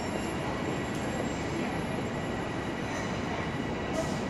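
Long Island Rail Road electric multiple-unit train pulling away from the platform: a steady rumble of wheels on rails with a faint, thin, steady high whine.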